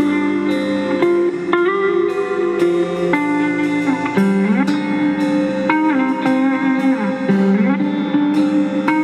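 Guitar played alone, plucked notes ringing on, with several notes sliding smoothly up and down in pitch in the manner of a slide guitar.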